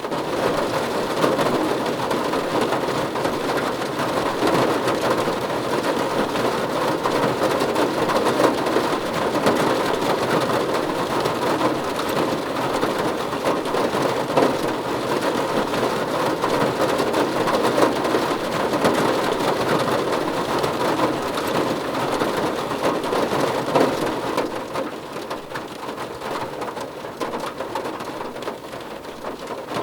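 Steady heavy rain falling on a car roof, a dense, even hiss of countless drop impacts, easing slightly near the end.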